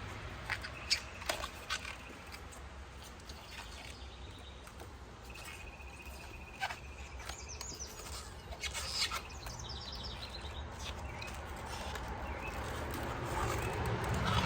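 Small birds chirping: a held high note and a few short trilled chirps, over a steady low hum. A few light clicks come in the first two seconds.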